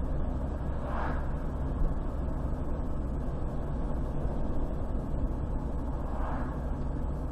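Steady rumble of a car driving along a highway: engine and tyre noise, with two brief whooshes of passing vehicles, about a second in and near the end.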